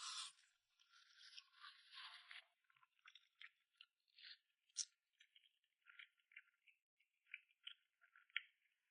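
Faint close-up eating sounds: a person chewing and smacking, with many small wet clicks and crackles of the mouth and food, and two sharper clicks about five and eight and a half seconds in.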